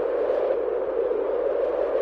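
Steady wind noise: an even, hollow-sounding rush concentrated in a narrow middle band, without gusts or breaks.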